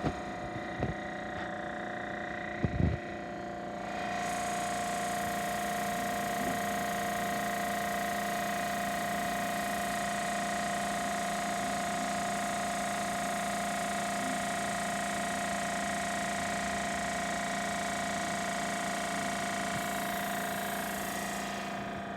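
Hitachi EC1443H high-pressure air compressor running with a steady hum, with a couple of knocks in the first few seconds. About four seconds in, a loud hiss of air joins and holds steady, then fades near the end.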